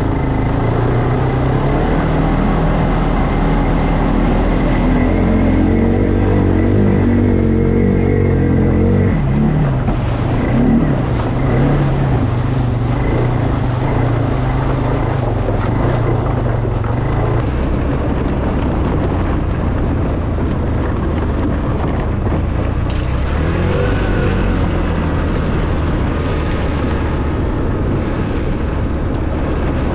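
ATV engine running steadily under throttle over a continuous rushing noise. Its pitch shifts about nine seconds in and again a few seconds later.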